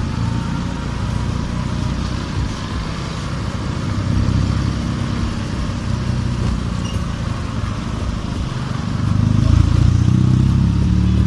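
Wind buffeting a helmet-mounted phone microphone while riding, over the running engine of a Honda RS125 FI single-cylinder motorcycle; the rumble swells near the end.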